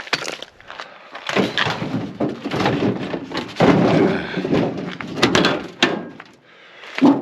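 A microwave oven's sheet-metal outer cover being worked loose and pulled off: irregular metal clanks, knocks and scraping rattles, with two sharp knocks about five to six seconds in.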